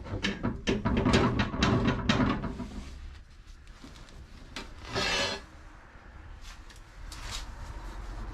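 A quick run of scraping and knocking for about three seconds, then a single longer rasping scrape about five seconds in, and a few light knocks near the end.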